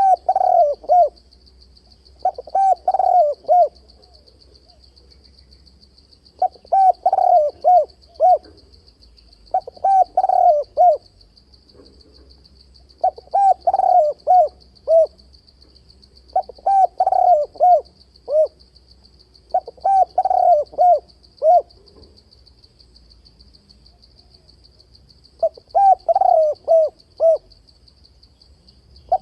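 Spotted dove cooing in repeated phrases: about eight multi-note coo phrases, each a second or two long, separated by short pauses. These are the provoking territorial calls of a male, used as a lure for fight-trapping wild doves. A faint steady high hiss runs underneath.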